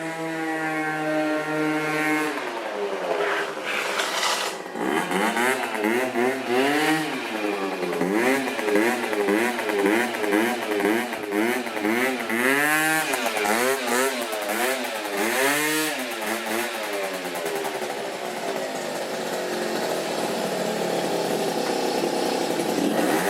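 Yamaha Aerox 50cc two-stroke scooter engine with a Giannelli Reverse exhaust, being revved: the pitch holds briefly, then swings up and down about once a second through a long run of throttle blips, and settles to a steadier note near the end.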